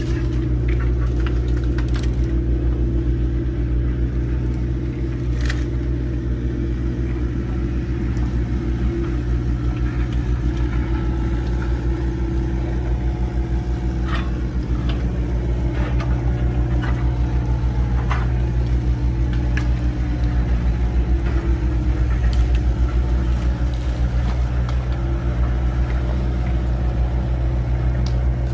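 Old GMC logging truck's engine running steadily, with a few sharp knocks and clunks along the way.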